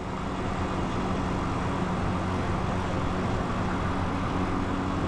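Italika 250 motorcycle engine running at a steady pitch while riding, with wind and road noise on the bike-mounted microphone.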